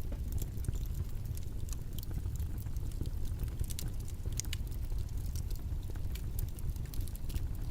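Steady low, rumbling background noise, the white-noise bed of a study session, with scattered faint clicks and ticks over it.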